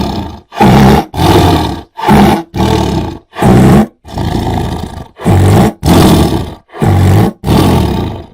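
Tiger roaring: short, rough roars repeated in quick succession, about three every two seconds, with one longer, quieter call about halfway through.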